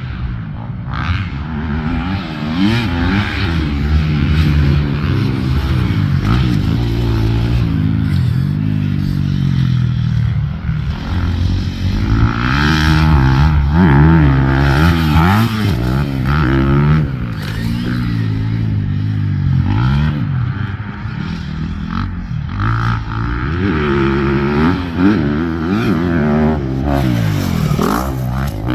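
Honda CRF250R's single-cylinder four-stroke engine being ridden hard, its pitch climbing and dropping again and again as the throttle is opened and shut.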